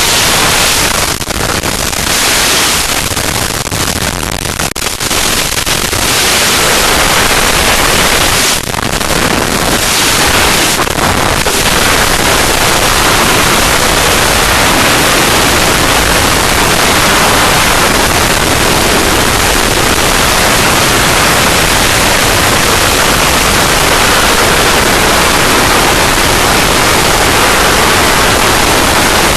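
Heavy wind noise buffeting a helmet-mounted camera's microphone during a wingsuit freefall after a balloon exit. The rush is uneven, with brief dips, for about the first ten seconds as airspeed builds, then holds as a dense, steady rush.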